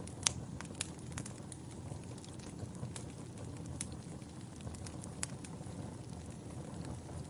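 Wood fire burning in a fireplace: a steady low rumble of flames with irregular sharp crackles and pops from the burning logs, the loudest pop about a quarter second in.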